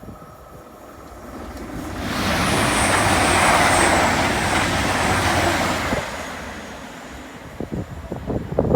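A train passing through the level crossing at speed: a rushing noise that swells over about two seconds, holds for about four, then fades away, with a faint high whine over it.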